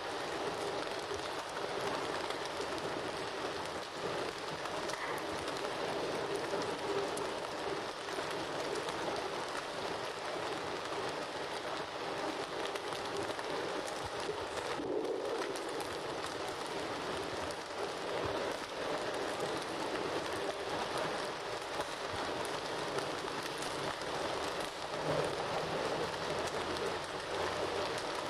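Bonfire burning with a steady, dense crackle.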